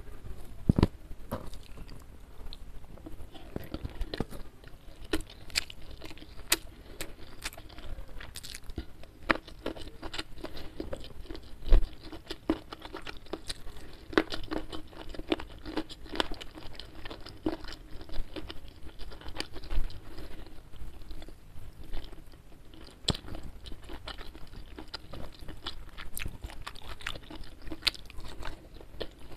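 Close-miked chewing and crunching of a mouthful of fried chicken, rice and vegetables, with many sharp, irregular crunches. One louder thump comes about twelve seconds in.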